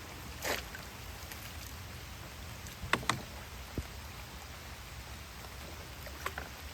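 Steady rain falling, an even hiss, broken by a few short sharp knocks, two of them close together about three seconds in.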